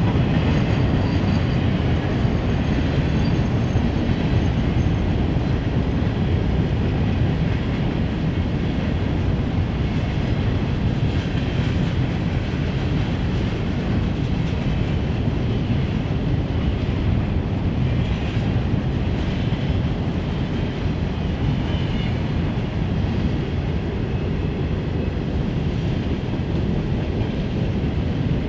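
Empty open-top hopper cars of a freight train rolling past, a steady rolling noise of steel wheels on rail, strongest in the low end.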